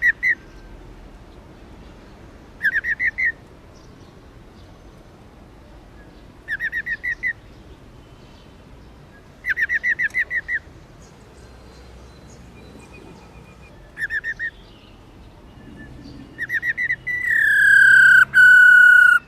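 Black-throated laughingthrush (female) calling: short runs of rapid, rattling notes every few seconds, the rolling 'ro ro' call. Near the end comes a long, loud whistle that falls slowly in pitch.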